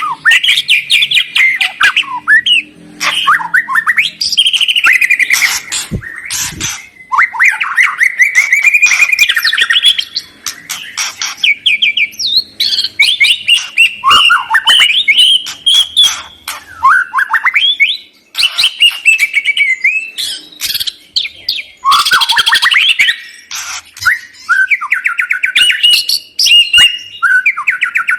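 A songbird singing a fast, varied song of whistled sweeps, rapid trills and harsh chattering notes, broken by a few short pauses.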